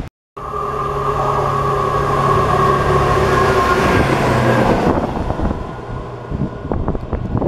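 Diesel train running close by: a loud, steady drone of engine and rails with several held tones, which eases off about five seconds in to a quieter rumble.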